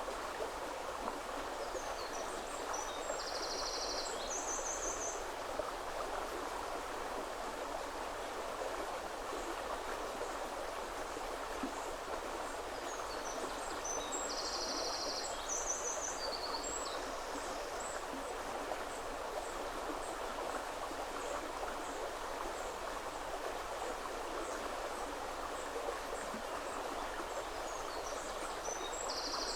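River water flowing steadily over stones, an even rushing. A small songbird sings short phrases of high, rapidly repeated notes three times: about three seconds in, around fourteen seconds, and again near the end.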